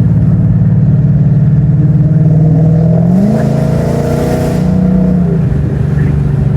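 Dodge Charger's 5.7-litre Hemi V8 running while driving; the engine note rises about three seconds in as it pulls, then eases back down a little after five seconds.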